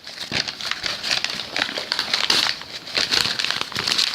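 Paper being crumpled by hand into balls, a continuous irregular crinkling and crackling.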